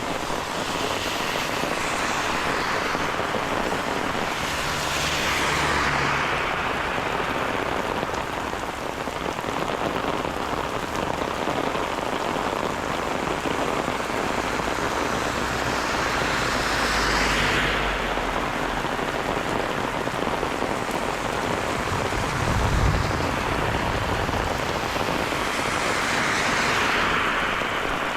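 Steady rain falling, a continuous hiss, with a few swells of louder hiss lasting a second or two. A brief low thump comes about three-quarters of the way through.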